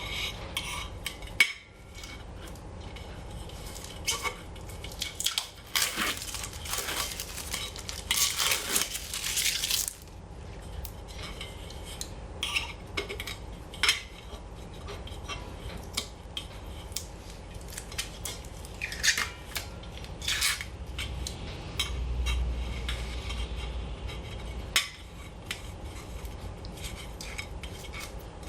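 Protective plastic film being peeled off the steel plates of a secondary-combustion fire pit, crackling and rustling in irregular bursts, with the metal parts clinking and knocking as they are handled.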